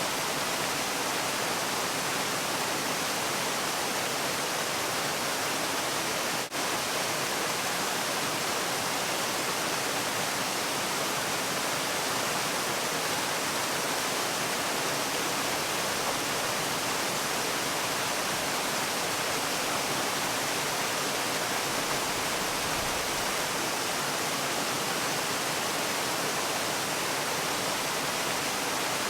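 Waterfall rushing in a steady, even hiss with no change in pitch or loudness, apart from a momentary dip about six seconds in.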